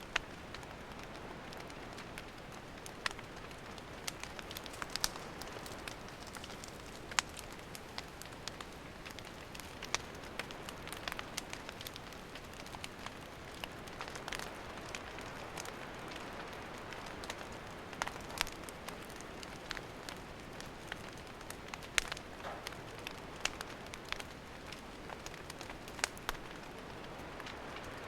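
Wood campfire burning: a steady hiss with frequent sharp crackles and pops at irregular moments.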